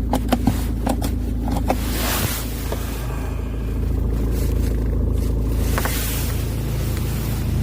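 2004 Hyundai Santa Fe's engine running steadily with a low hum, with a few sharp clicks in the first two seconds.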